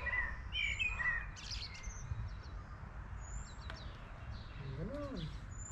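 Small birds chirping, with short falling chirps in the first second or so and a few thin high notes later. A steady low rumble runs underneath, and a short rising-and-falling voice-like sound comes about five seconds in.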